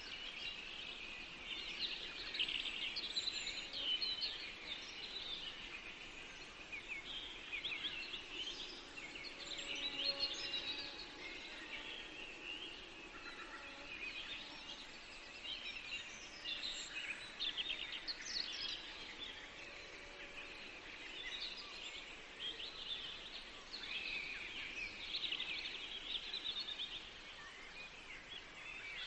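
Several songbirds singing over one another in a forest, a steady chorus of short chirps and song phrases, over a faint background hiss.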